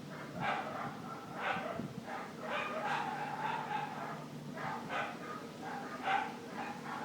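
A dog barking repeatedly, short barks about one or two a second, over a steady low hum.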